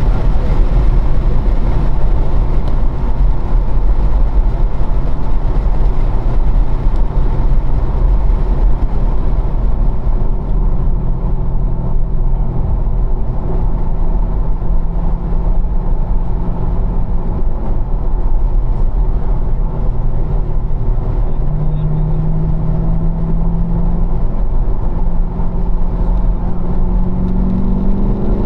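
A car's engine, with road and wind noise, heard from inside the car on a race track. It runs hard at about 4,500 rpm in fourth gear at first, eases off for braking into a corner around ten seconds in, then pulls again in fourth with its pitch rising near the end.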